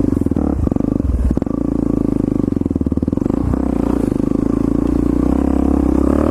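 Single-cylinder dirt-bike engine running under way at a fairly steady speed, with a couple of brief dips in the first second and a half.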